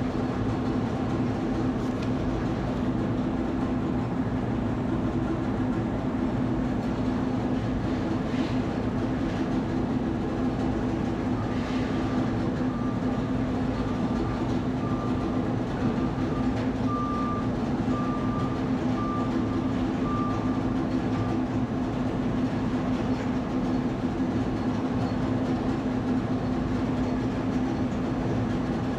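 Steady rumble of a moving vehicle, with a constant low hum under it. Through the middle, a row of short high beeps repeats about one and a half times a second for some ten seconds.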